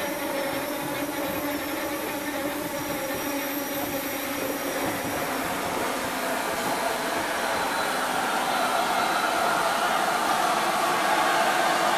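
A slow-moving train drawing along the platform beside the rebuilt Bulleid Merchant Navy 4-6-2 steam locomotive No. 35018, with a Class 47 diesel hauling. It makes a steady hiss and rumble with a few faint whining tones, growing louder over the last few seconds.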